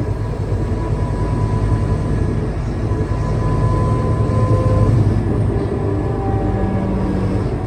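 Scania K320UA bus running under way: a steady engine and drivetrain rumble with a thin whine over it. It grows louder up to about five seconds in, then eases off.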